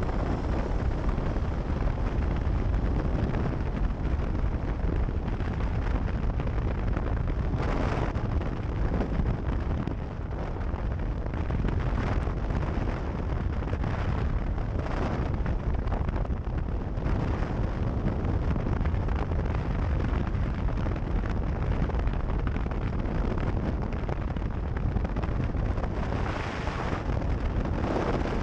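Heavy wind buffeting an action camera's microphone, a steady deep rumble with brief rushing gusts every few seconds, as from a camera on a moving vehicle.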